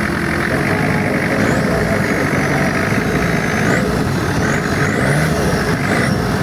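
Boat engine running steadily at cruising speed, with water and wind noise around it.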